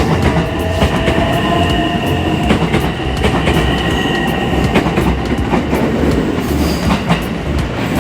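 Train running on rails: a steady rumble with several held whining tones and repeated sharp clicks of the wheels over rail joints.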